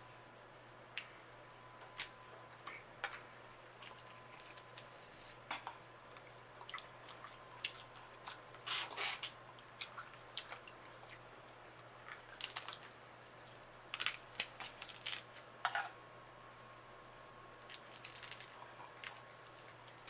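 Seafood-boil crab shell being cracked and torn apart by hand, with irregular sharp cracks and crunches and some eating sounds. The cracking comes in clusters about nine seconds in and again around twelve to sixteen seconds in.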